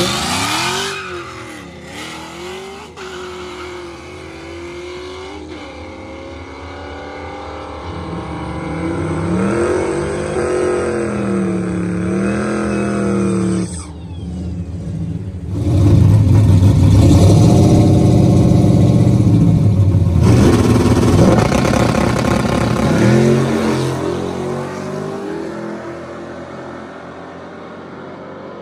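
Drag-racing cars' engines revving and accelerating hard, their pitch climbing and falling. About halfway it breaks off abruptly, then comes back louder and fades away toward the end as the cars run off down the track.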